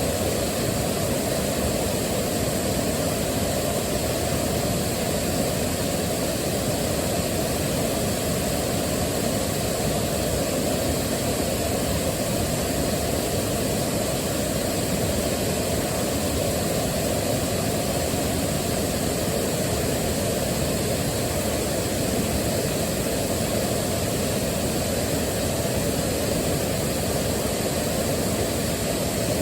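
Waterfall: a steady, unbroken rush of falling water, deep and full.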